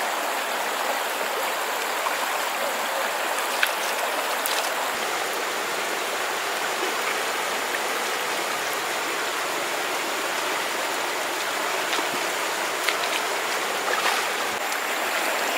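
Steady rush of flowing water, like a small stream or runoff channel, with a few faint ticks.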